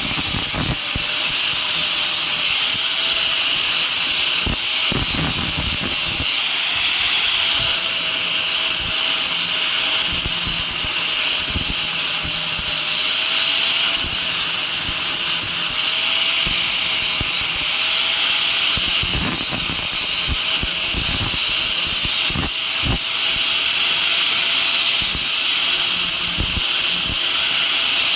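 Steady running of a motor-driven machine in the blacksmith's shop, with a loud hiss over a faintly wavering hum and a few scattered clicks.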